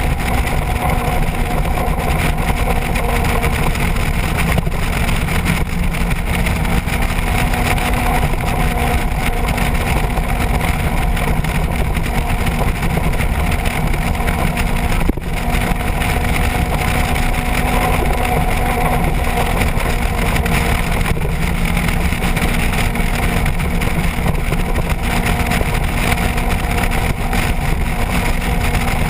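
Motorcycle engine droning at a steady pitch at cruising speed, with wind rush on the microphone, and a brief break about halfway through.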